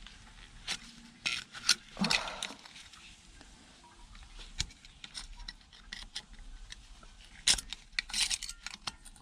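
Small metal and plastic scrap parts from e-waste clinking and clattering as they are handled and sorted, in scattered clicks and knocks with a busier cluster near the end.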